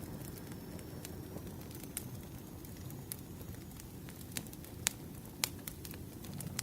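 Campfire crackling: a steady low rumble of flames with scattered sharp pops, two louder ones past the four-second mark.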